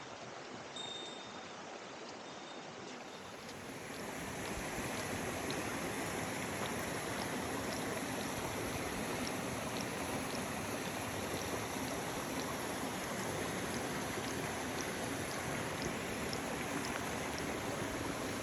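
Small mountain stream running over rocks, a steady rush of water that grows louder about three to four seconds in, with a thin steady high hiss above it.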